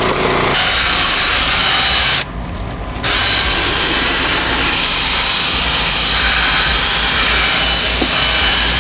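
A power cleaning tool runs on a van's floor carpet with a steady hissing rush. It stops for under a second about two seconds in, then starts again, over a low engine hum.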